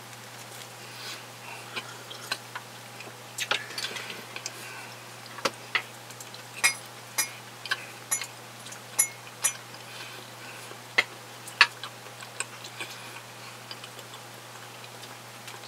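Close-miked chewing of a buttered bread roll with cervelat sausage: irregular wet mouth clicks and smacks, the loudest coming in a scattered run from about three seconds in to near the end, over a steady low hum.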